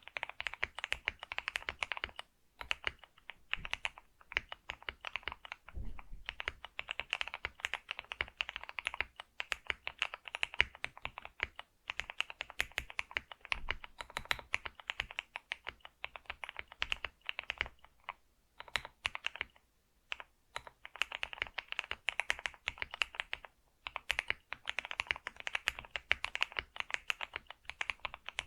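Computer keyboard being typed on continuously: rapid key clicks in runs of several seconds, broken by brief pauses.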